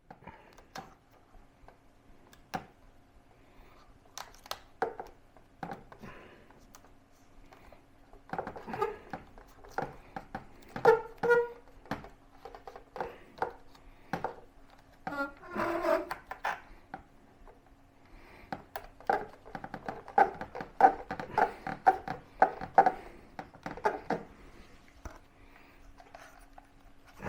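Close hand-handling noise as adhesive tape backing is peeled off a neoprene drone skin panel and the panel is pressed onto the drone: irregular crackles, clicks and rustles, busiest in the middle and later part, with two brief squeaky rasps midway. A steady low hum runs underneath.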